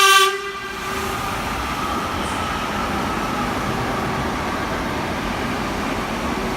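A train horn sounds a single low note that cuts off within the first second, followed by the steady running noise of a train passing through the station.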